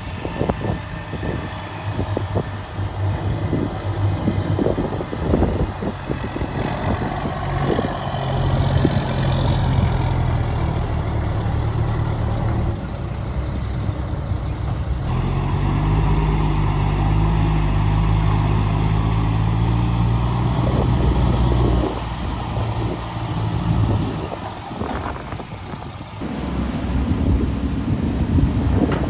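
Heavy excavator diesel engine running and working under load, its pitch rising as it revs up about halfway through, with repeated knocks and clatter in the first seconds and again near the end.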